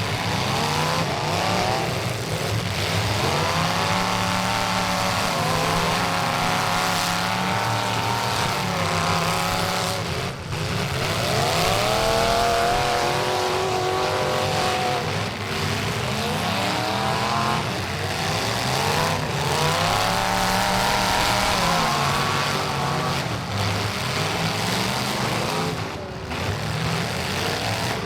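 Race trucks' engines running hard around an oval, the engine note rising as they accelerate and falling as they lift off, over and over as the trucks go by.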